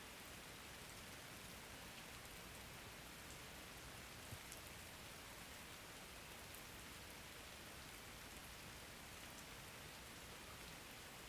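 Steady rain falling: a soft, even hiss with scattered faint drop ticks.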